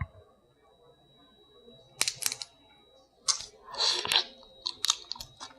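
Crab shell being cracked and picked apart while eating: a few sharp crunches and clicks about two seconds in, a longer crackling burst around four seconds, then scattered small clicks.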